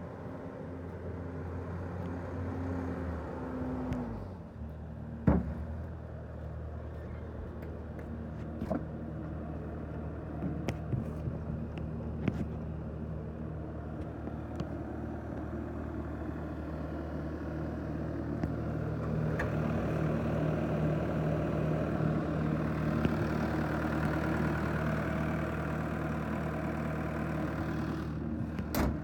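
Bobcat T590 tracked skid steer's diesel engine running. Its pitch steps down about four seconds in, and it runs louder and busier in the second half. Scattered sharp knocks come through, the loudest about five seconds in.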